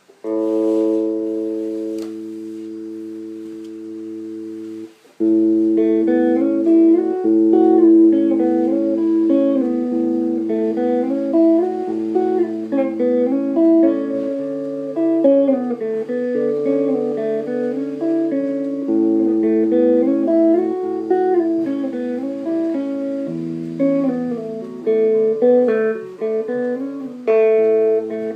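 Clean guitar played through a homemade Ruby amplifier, a small LM386-based guitar amp: one chord rings out for about five seconds, then a run of picked melody notes and arpeggios over bass notes carries on.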